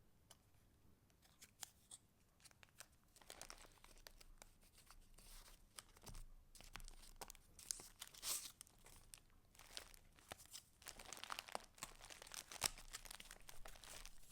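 Faint paper rustling and crinkling from the pages and paper pieces of a handmade junk journal being handled, with small ticks and taps between the rustles. The rustling grows denser and louder around the middle and again near the end.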